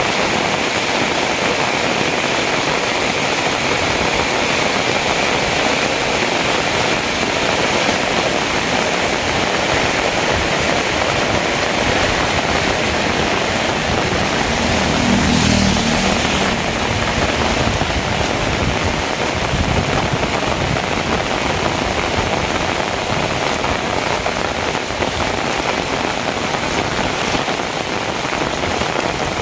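Heavy rain falling in a steady hiss. About halfway through, an engine rises and fades over a couple of seconds, as a vehicle passes.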